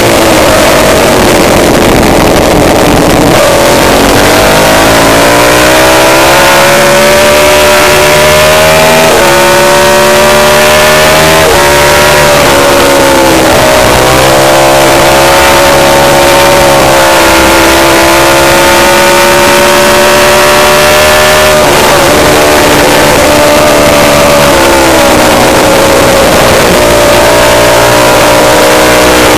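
Loud racing motorcycle engine at speed on a track, its pitch climbing under throttle with sudden drops at each upshift. It winds down for corners about two seconds in and again past the middle, then builds once more.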